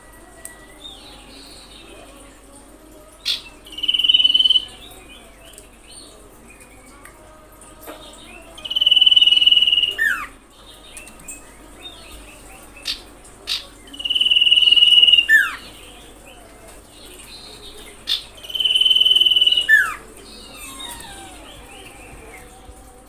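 Common iora song: four long, steady high whistles about five seconds apart, each ending in a quick falling note. Softer twittering runs between the phrases.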